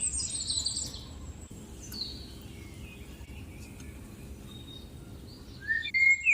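Birds chirping over a steady low rumble: a rapid high twittering in the first second, a few scattered calls, then louder chirps near the end.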